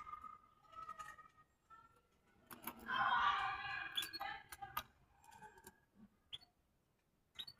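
Small cage birds chirping and chattering, loudest in a busy burst of calls a few seconds in, with several sharp clicks among them.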